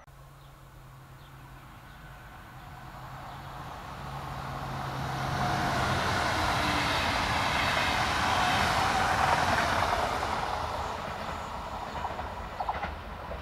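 A train passing by on the line: its rolling noise builds, is loudest for a few seconds in the middle, then fades away, with a few clicks near the end.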